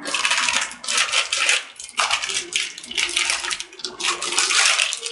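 Crinkly plastic packaging being handled and pulled open: a LEGO set's instruction and sticker packet, rustling and crackling in bursts of about a second each.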